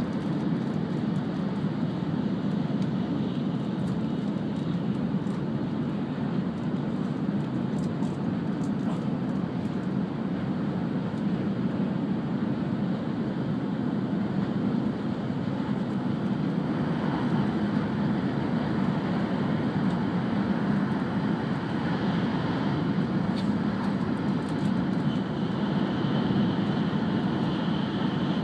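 Steady running noise inside the cabin of an E5 series Shinkansen travelling at speed: an even low rumble with hiss from the rails and air. A faint steady high whine joins near the end.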